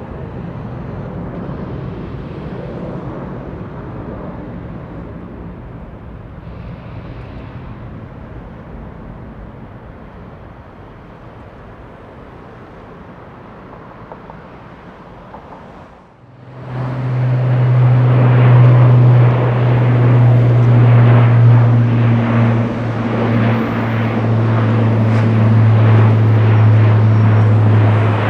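The jet engines of an Airbus A330-300 rumbling and slowly fading as it passes. About sixteen seconds in, this cuts abruptly to the much louder, steady deep propeller hum of an Airbus A400M's turboprops, over a noisy engine wash.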